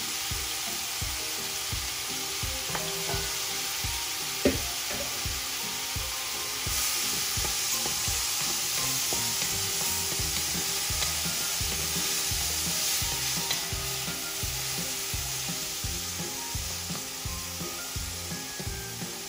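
Shrimp sizzling in hot oil in an aluminum pot, stirred with a wooden spatula. The sizzle grows louder about a third of the way in and eases off later, and there is one sharp knock a few seconds in.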